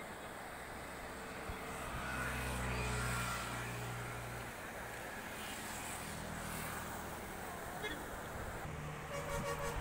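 A motor vehicle's engine hum that swells about two seconds in and fades a couple of seconds later, with a fainter engine sound returning near the end.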